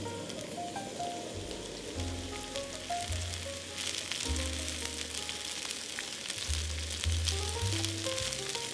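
Food frying in a pan, a sizzling hiss with fine crackles that gets louder about four seconds in, over background music with a bass line and melody.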